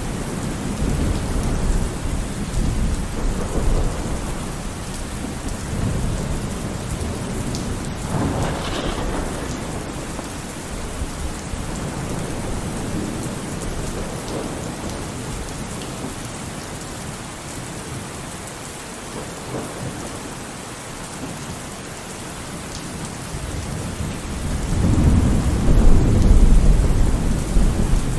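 Rain falling steadily with rolling thunder: low rumbles swell and fade, the loudest one near the end.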